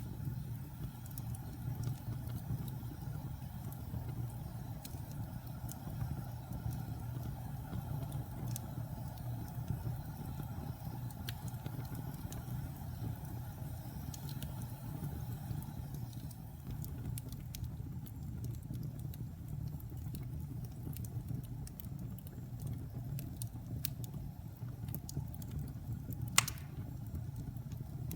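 Wood fire in a fireplace burning, with a steady low rumble of flames and scattered crackles, and one sharp pop near the end.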